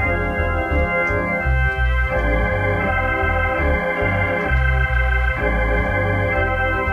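An organ playing held chords over a bass line that steps between notes every half second to a second.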